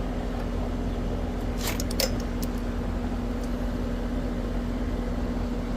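Steady hum of a running air-conditioning condenser unit, with a few sharp clicks about two seconds in.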